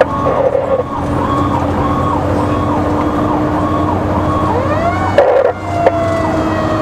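Fire engine's electronic siren yelping, rising and falling about twice a second, over the truck's engine drone. About five seconds in there is a loud short blast with a rising sweep, after which a slowly falling wail takes over.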